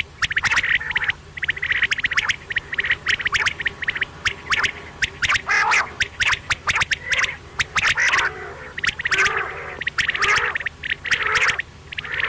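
Quail calling: bouts of rapid, harsh, clicking chatter about a second long, repeated with short gaps, over a faint low hum.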